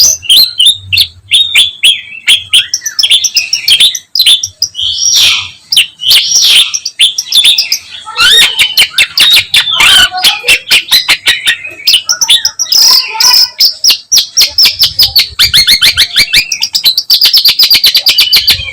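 A long-tailed shrike singing a loud, unbroken stream of quick, varied chirps and whistled phrases, rich in imitated calls, with a fast run of rapid repeated notes near the end.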